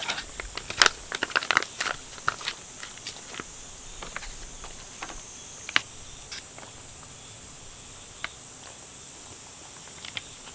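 Steady high-pitched chirring of insects, with a quick run of small clicks and taps in the first two seconds or so and scattered single ticks afterwards.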